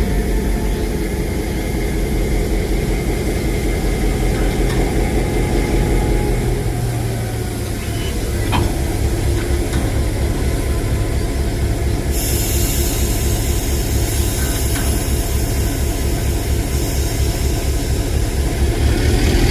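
Railway locomotive engine running steadily with a low, pulsing rumble during shunting. A high hiss joins about twelve seconds in.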